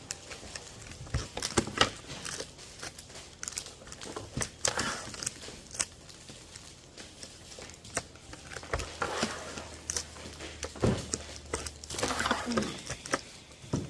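Plastic packaging crinkling and rustling, with irregular sharp clicks, as oil-based permanent markers are packed by hand.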